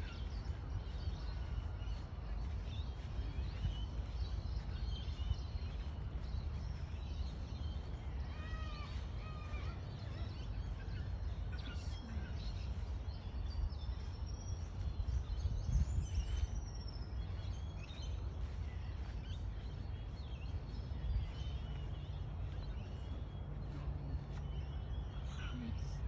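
Wild birds chirping and calling in the trees, with a cluster of short chirps about a third of the way through and a higher, arching whistled call in the middle, over a steady low rumble.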